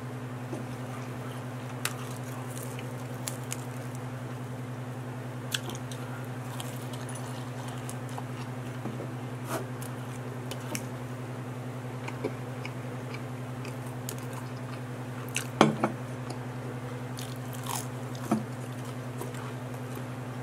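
Close-miked biting and chewing of pizza crust: scattered crisp crunches and mouth clicks, with a louder cluster of crunches about fifteen seconds in, over a steady low hum.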